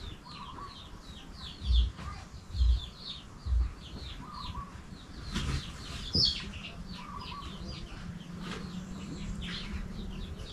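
Small birds chirping over and over in short, high, falling notes. About two seconds in come three dull low thumps, a little under a second apart, louder than the birds.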